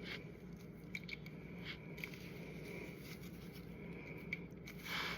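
Faint, scattered small clicks and a brief scrape of hands working a spade wire connector onto a motorcycle's switch terminal, over a steady low background hum.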